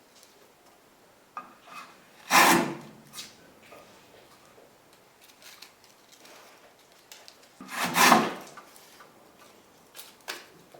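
Restored Stanley hand plane taking two strokes along a wooden board, each a short shaving swish, the strokes about five seconds apart, with a few light knocks in between.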